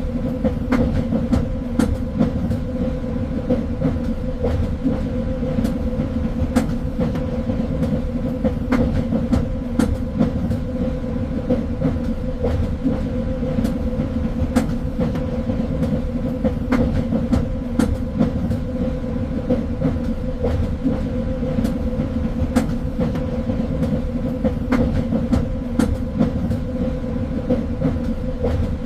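Train running along the track: a steady low rumble with a constant hum, and irregular sharp clicks of the wheels over the rails.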